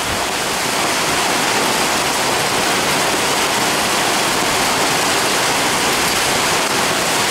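Heavy storm rain pouring down in a steady, even rush.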